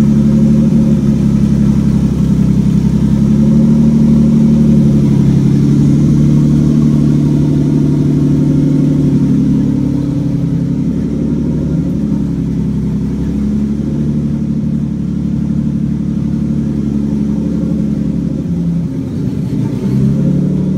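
BMW E36 engine idling steadily and loud through a chopped-off header with no exhaust, running rich. It gets a little quieter about halfway through.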